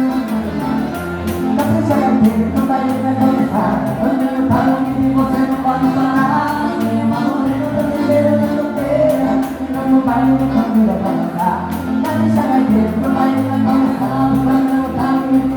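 Live gaúcho dance music: accordion chords over a steady pulsing bass beat, with singing.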